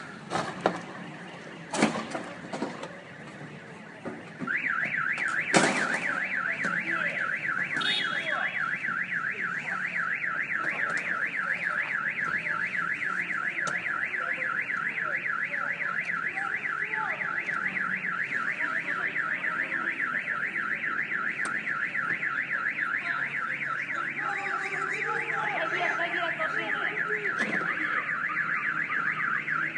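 Car alarm siren warbling rapidly up and down at a steady rate. It starts about four seconds in, after a few sharp knocks, and a loud knock comes shortly after it starts.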